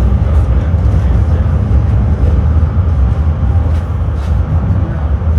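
Tram running between stops, heard from inside the passenger car: a loud, steady low rumble of wheels on the rails and the running gear.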